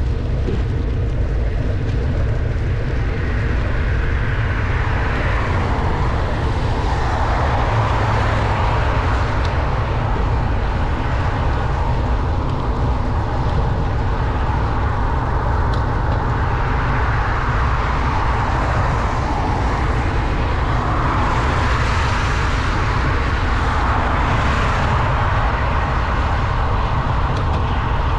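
Bicycle ride in pouring rain: a steady low rumble of wind on the microphone, with the hiss of tyres on a wet road. The hiss swells twice, as vehicles pass.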